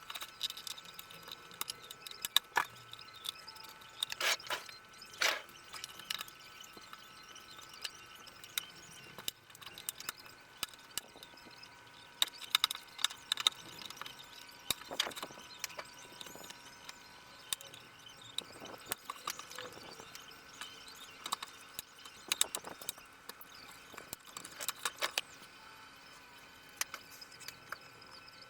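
Irregular clicks, taps and light knocks of tools, screws and plastic panels being handled while taking apart a Dell Inspiron 24 5400 all-in-one computer, over a faint steady high tone.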